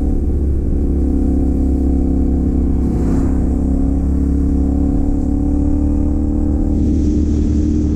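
CFMoto 450 parallel-twin motorcycle engine, fitted with a Yoshimura AT2 replica slip-on exhaust, running at a steady cruise with an even, nearly constant pitch, together with wind and road noise.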